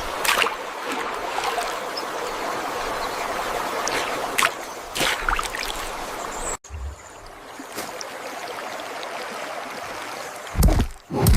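Running water, like a stream, flowing steadily with a few short splashes; the sound cuts off abruptly partway through and returns, and a couple of heavy thuds come near the end.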